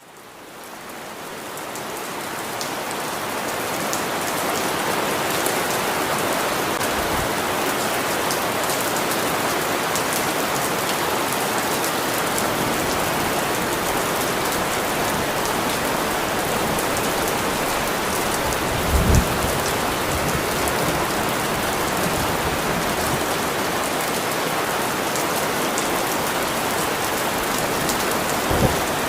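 Steady rain falling, fading in over the first few seconds. About two-thirds of the way through and again near the end come two brief low thumps.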